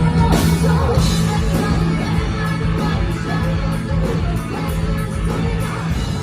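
Live rock band playing, with sustained bass and regular drum hits and some vocals, heard as a loud room recording.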